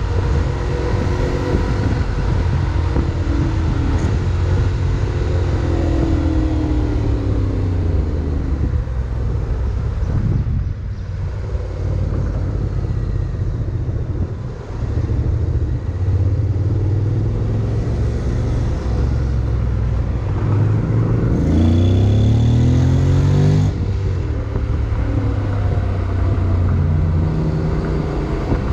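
Honda X-ADV 750's parallel-twin engine with wind rush, heard from the rider's seat while riding in traffic. The engine pitch rises as it accelerates several times, most strongly about three-quarters of the way through, and it eases off for a few seconds near the middle.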